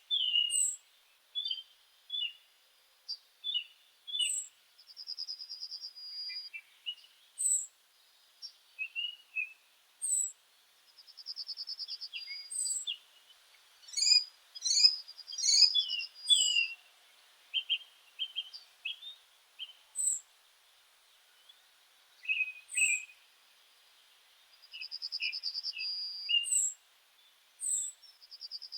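Several songbirds singing and calling, the songs overlapping. One repeats a short, high trill about every five seconds, another gives brief, very high down-slurred notes every couple of seconds, and the calls crowd together for a few seconds around the middle.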